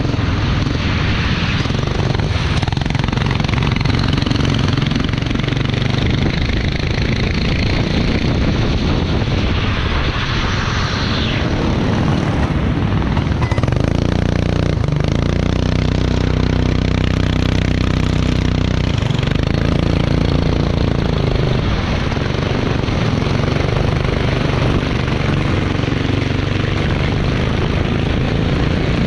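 Racing kart engine running under a steady wash of wind and road noise; for several seconds past the middle a steady engine note stands out clearly.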